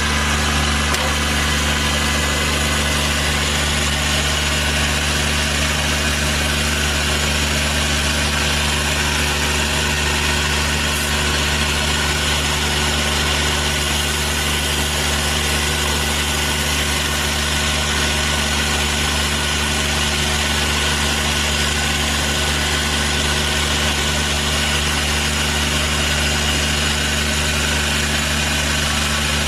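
An engine running steadily at one constant speed, with no revving, for the whole stretch.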